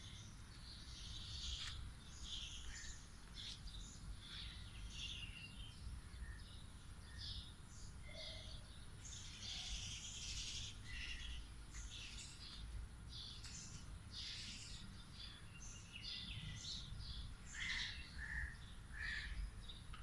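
Birds chirping and calling on and off outdoors, faint, over a low, steady rumble of background noise.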